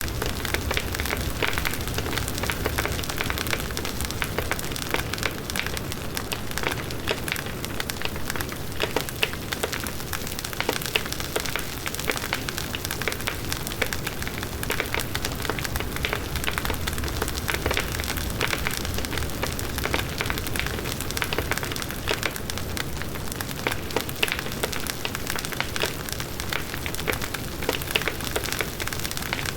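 Large wood bonfire burning: dense, steady crackling and popping of the wood over the low rush of the flames.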